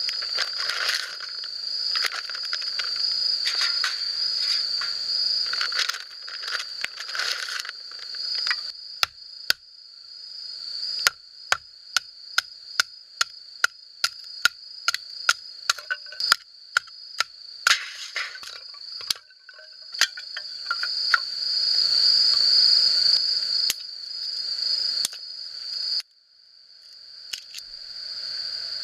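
Insects trilling steadily in a continuous high chorus. Through the middle comes a long run of sharp clicks and knocks, two or three a second.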